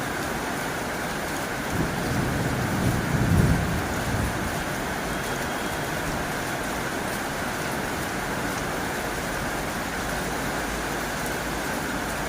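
Heavy rain falling steadily on a tin roof, with a low rumble of thunder swelling about two seconds in and fading within two seconds.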